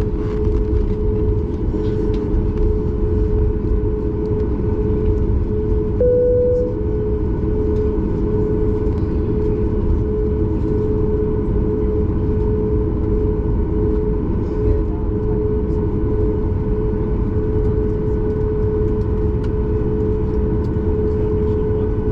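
Cabin noise of a Boeing 737 MAX 8 heard from a window seat: the CFM LEAP-1B engines and airflow make a steady, loud drone with a constant hum. About six seconds in, the hum briefly steps up a little in pitch.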